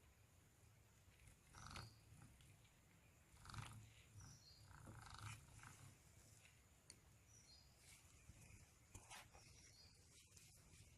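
Near silence: faint background hum with a few faint, brief scattered noises.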